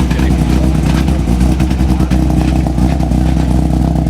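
Rally car engine running hard at high revs, loud and steady.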